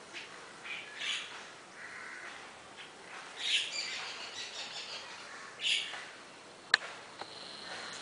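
Birds giving short, harsh squawking calls three times, about a second in, midway and near six seconds, amid the scolding between a house crow and a black drongo. A single sharp click comes just before the end.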